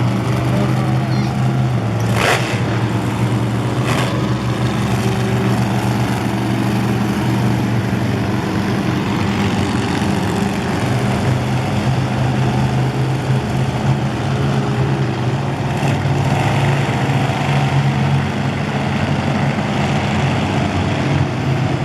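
Monster truck engines running at low speed, a steady low drone, with two short sharp cracks about two and four seconds in.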